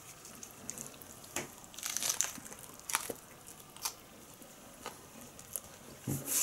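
A person biting into and chewing a tortilla wrap filled with iceberg lettuce: irregular crunches and crackles, with a loud cluster about two seconds in and another near the end.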